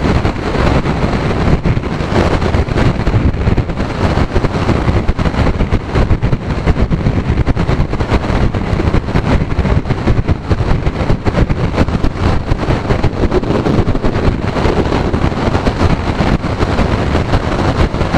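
Heavy wind noise buffeting the microphone of a motorcycle riding in a strong crosswind, mixed with road and engine noise, loud and gusting unevenly.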